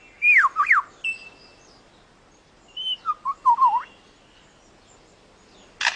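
Male superb lyrebird singing: a few clear whistled notes sliding down in pitch, then a run of lower, wavering whistles about three seconds in. Just before the end comes a single sharp click, its imitation of a camera shutter.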